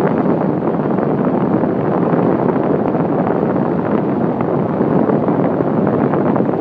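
Steady wind noise buffeting the microphone, a dense even rush with no distinct strokes or tones.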